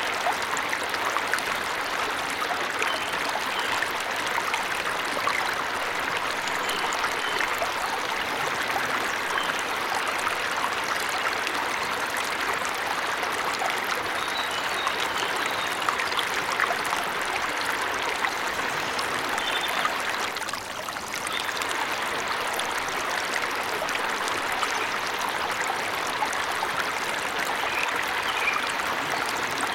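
Forest waterfall or stream, water rushing steadily with a few faint, short high chirps of birds. The level dips briefly about two-thirds of the way through.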